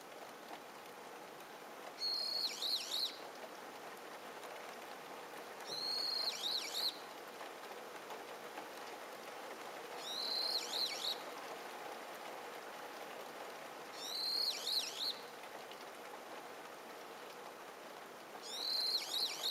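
A songbird repeating a short, high-pitched song phrase of quick falling notes about every four seconds, five times, over a faint steady background hiss.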